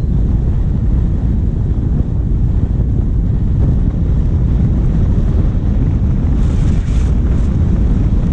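Wind buffeting the microphone of a bonnet-mounted camera on a moving vehicle, over the steady running of its diesel engine. A brief hiss comes about six and a half seconds in.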